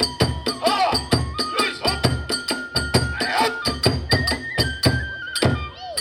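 Kagura hayashi music: drums and small brass hand cymbals beating a quick, even rhythm under a bamboo flute holding notes that step upward. The ensemble stops just before the end.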